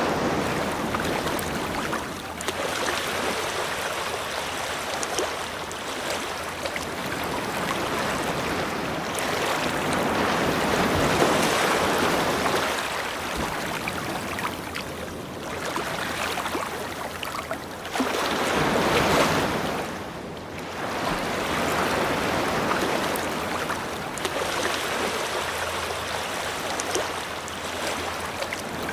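Ocean surf: waves breaking and washing up the shore, the rush swelling and ebbing every few seconds, with the loudest surge about two-thirds through.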